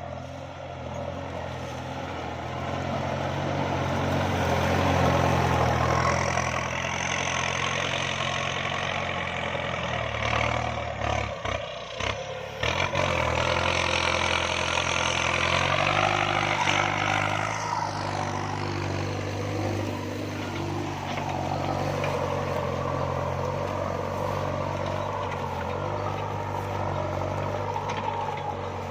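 Kubota MU5702 tractor's diesel engine running steadily under load while ploughing a rice paddy. The noise swells louder twice, about a sixth and a half of the way through, with a brief dip and a few knocks just before the middle.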